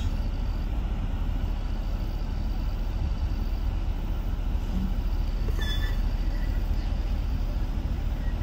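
Steady low rumble of a car's engine running, heard from inside the cabin.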